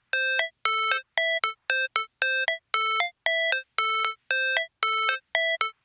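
Electronic music intro: a bright, buzzy synthesizer plays a short two-note figure, the second note higher, repeating about twice a second with clipped gaps between.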